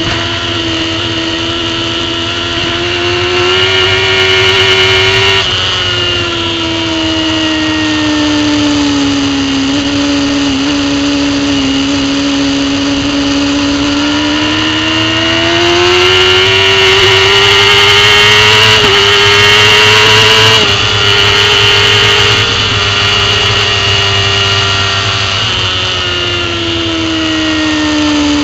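Racing superbike engine heard on board at speed, its pitch climbing and falling with the throttle and gear changes. It drops sharply about five seconds in, climbs again in the middle, and falls off near the end, over a steady rush of wind noise.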